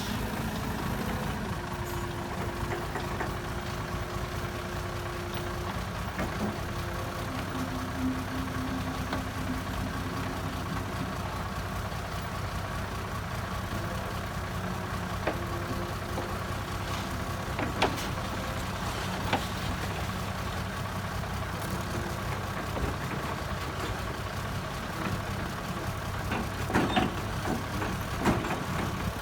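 Heavy diesel engine of an earthmoving machine running steadily at low revs, with a few sharp knocks near the end.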